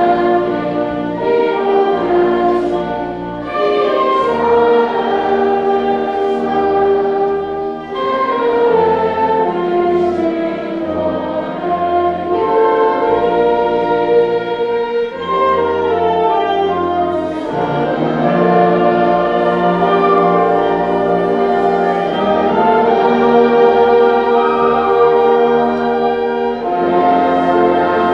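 School wind band playing a slow piece in sustained chords, with brass prominent.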